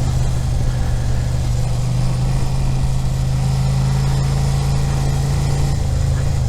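Suzuki SV650's V-twin engine running at a steady low, even note in second gear at about 20 mph while the bike is leaned through a slow car-park turn. The note dips slightly near the end, over a steady rush of wind on the microphone.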